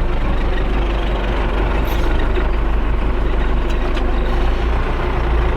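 Tractor engine running steadily at a constant speed, a loud low hum with no revving.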